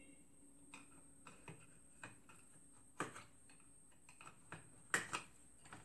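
Scattered light clicks and taps of plastic fuser housing parts being handled and fitted together during reassembly, with a sharper knock about three seconds in and another about five seconds in.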